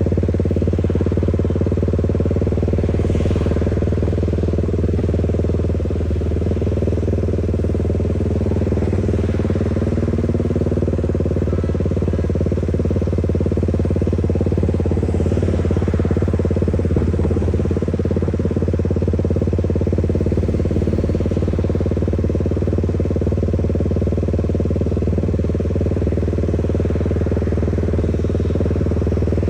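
Motorcycle engine running steadily at an even pitch for the whole stretch, with no revving.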